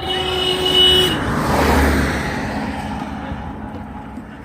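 A vehicle horn sounds one steady note for about a second, then a motor vehicle rushes past close by, its noise swelling and fading over the next few seconds.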